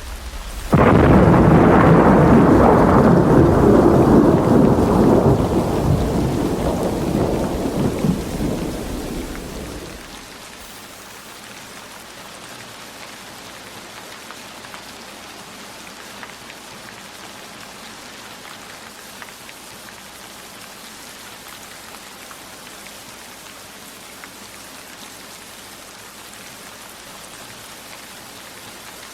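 A loud thunderclap breaks in suddenly about a second in and rumbles on, slowly fading over some nine seconds. Steady rain falls throughout.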